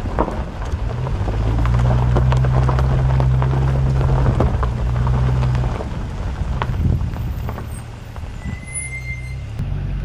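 Motor vehicle engine running with a steady low hum that swells for a few seconds and then eases off about six seconds in, over constant knocks and rattles. A brief high squeak comes near the end.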